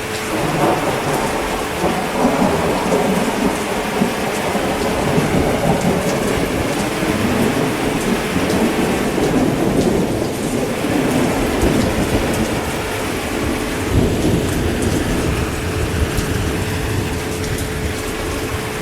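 Steady heavy rain with a long, rolling rumble of thunder that swells about half a second in and keeps going.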